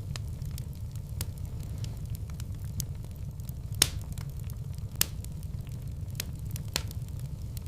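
Wood fire burning in a fireplace: irregular sharp crackles and pops over a steady low rumble, the loudest pops about four and five seconds in.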